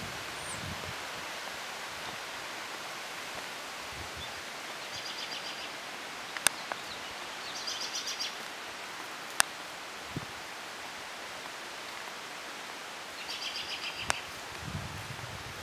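Outdoor ambience: a steady rushing hiss, with a small bird giving short bursts of rapid chirps three times, about five, eight and thirteen seconds in. A few sharp clicks and soft low thumps come and go.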